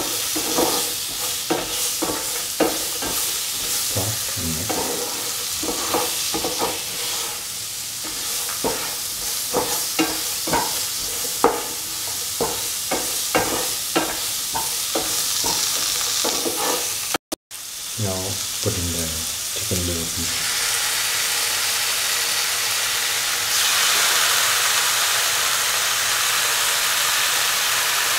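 Carrot slices and spices frying in oil in a pan, sizzling steadily, while a spatula scrapes and knocks against the pan in quick repeated strokes as they are stirred. After a brief break in the sound past the middle, the stirring stops and the sizzle carries on, growing louder near the end.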